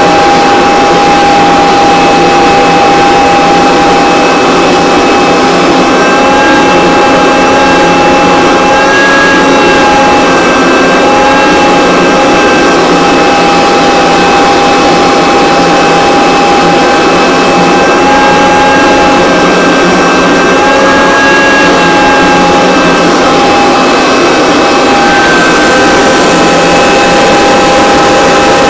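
Vacuum cleaner motor running steadily, loud, with a high whine that wavers slightly in pitch.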